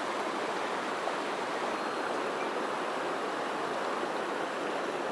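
Mountain stream water rushing over rocks, a steady, even wash of noise.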